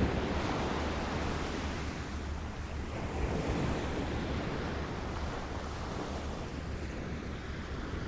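Small waves lapping at the shore: a continuous wash of water that swells at the start and again about three seconds in, over a steady low rumble.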